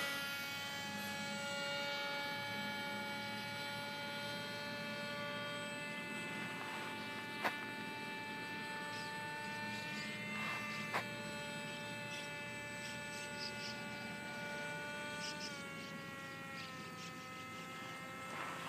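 Scratch-built foam-board RC aeroplane's motor and propeller giving a steady, thin buzzing tone, its pitch dropping slightly about two thirds of the way in and again a second later. Two faint clicks are heard midway.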